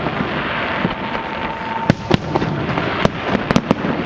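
Fireworks display going off: a continuous crackle of small bursts with sharp bangs about halfway through and a quick run of several more near the end.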